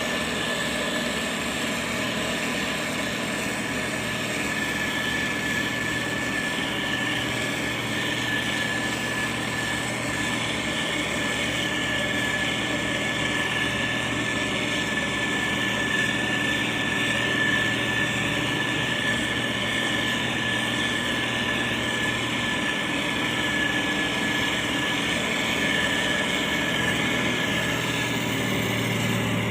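Motor grader's diesel engine running steadily, with a constant high-pitched tone above the engine noise.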